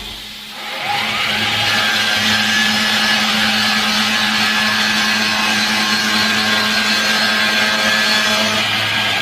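CNC Drillboy router spindle spinning up about a second in, then running at a steady high whine while machining the recess for an edge-mounted pull.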